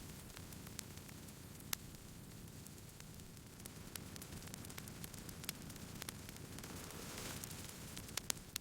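Campfire crackling: irregular sharp pops and snaps over a low, steady hiss, with a small cluster of louder pops near the end.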